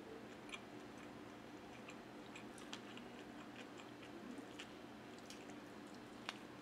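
Faint, close-miked chewing of chicken adobo eaten off the bone by hand, with small mouth clicks scattered through and a sharper click near the end as she takes another bite.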